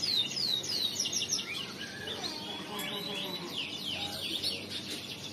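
Male crested canary singing: fast runs of repeated falling notes, with lower gliding notes woven in around the middle.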